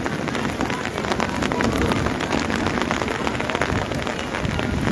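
Heavy rain falling steadily on wet paving, a dense, even patter of drops with no letup.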